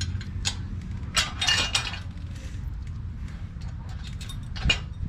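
Small steel hardware clinking: bolts, washers and lock nuts being handled and fitted to a brake bracket. A few single clinks, a rattling cluster about a second in, and one sharp clink near the end, over a steady low hum.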